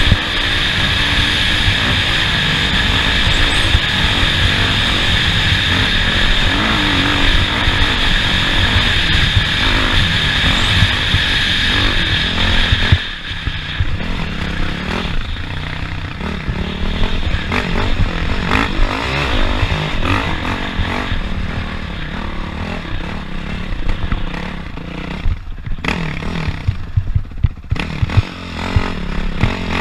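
Off-road race vehicle engine running hard over a rough track, with rattling. About thirteen seconds in the level drops suddenly, and then the engine rises and falls.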